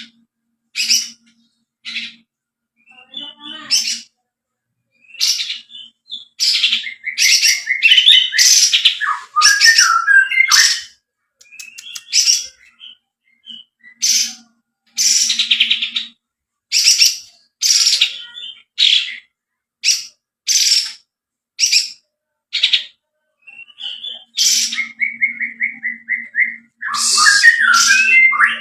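Kapas tembak bird singing: a steady series of short, sharp high notes about one a second, broken twice by a fast rolling trill, the long 'bren' roll.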